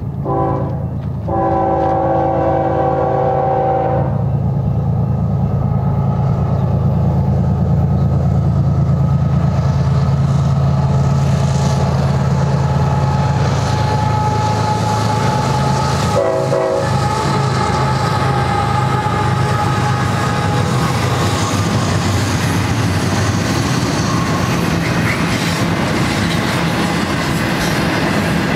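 BNSF diesel locomotive's multi-chime air horn sounding a short blast, then a longer one, in the first few seconds and a brief blast about 16 seconds in, over the steady rumble of the lead locomotives' engines. Then the rumble and clatter of double-stack container cars rolling past.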